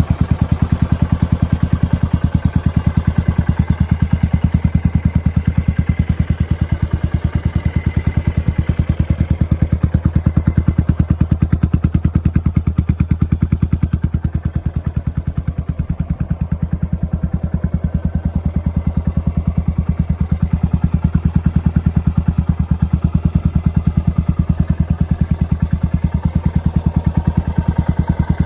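Yamaha SR400's air-cooled single-cylinder four-stroke engine idling steadily, with an even run of firing pulses.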